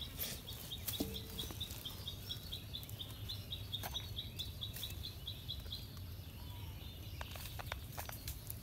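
A bird calling in a fast, even series of short high chirps, about four a second, which stops a little past halfway. A few light clicks come near the end over a low steady background rumble.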